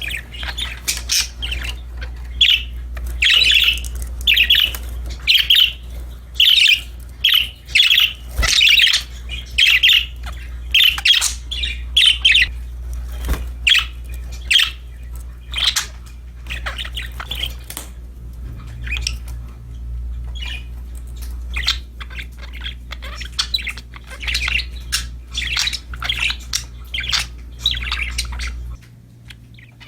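Budgerigars chirping and squawking in quick, overlapping short calls, busiest in the first half. A steady low hum runs underneath and cuts off near the end.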